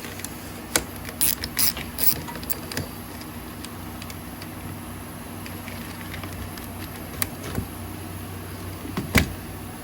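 Hand tools and metal engine parts clicking and knocking as they are handled during an engine teardown, with a few sharp clicks in the first couple of seconds and more near the end, over a steady low hum.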